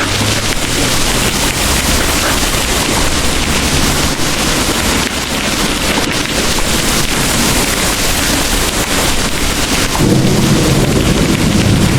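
Heavy rain pouring steadily, with a deep rumble of distant thunder that swells about ten seconds in.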